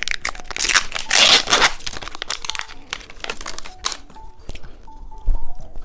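Plastic wrapper of a small ball-shaped gummy candy being torn open and crinkled, in dense crackling bursts that die down after about four seconds, leaving faint background music.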